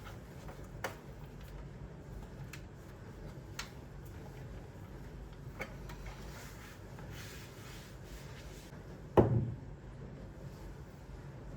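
Light clicks and taps of objects being handled, then one louder knock with a dull thud about nine seconds in, over a low steady room hum.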